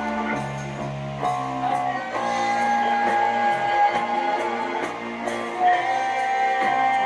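Live song performance: a singer holding long notes over guitar accompaniment.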